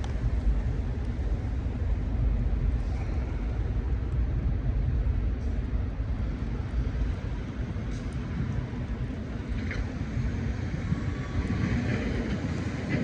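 Low, steady rumble of heavy vehicle engines running in the street.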